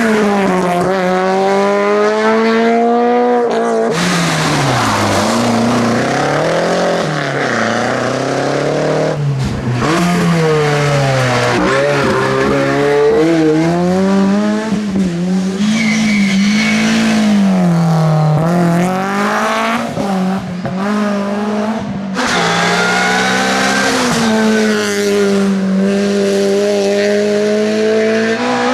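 Rally car engines at high revs on a special stage, the pitch climbing and dropping again and again through gear changes and lifts off the throttle. The sound breaks off abruptly a few times as one pass gives way to the next.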